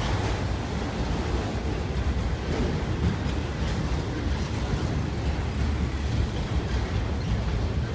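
Freight train of autorack cars rolling past at close range: a steady rumble of steel wheels on the rails.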